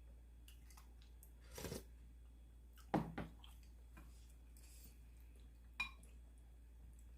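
Eating utensils knocking and clinking against a bowl: a few separate sounds, the loudest a sharp double knock about three seconds in, and a short ringing clink near six seconds, after a brief soft noise about a second and a half in.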